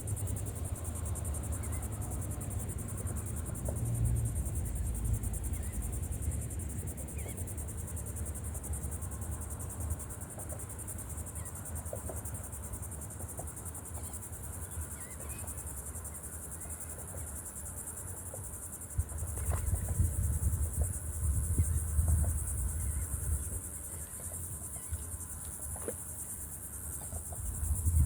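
Steady high-pitched insect chorus, crickets chirring without a break, over a low rumble that swells about two-thirds of the way through and again near the end.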